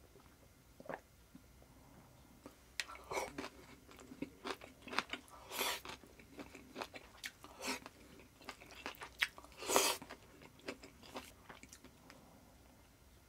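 Close-up chewing of a mouthful of stir-fried vegetables and pork: wet, crunchy clicks and smacks that run fast and uneven from about three seconds in until shortly before the end, loudest twice in the middle.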